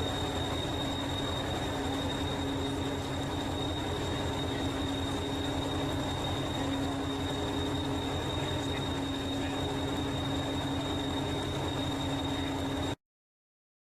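Train running steadily: a constant low rumble with a thin, high-pitched whine over it. The sound cuts off abruptly about a second before the end.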